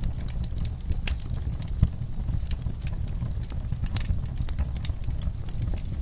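Wood fire burning in a fireplace: frequent, irregular sharp crackles and pops over a low, steady rumble of the flames, with one louder pop a little under two seconds in.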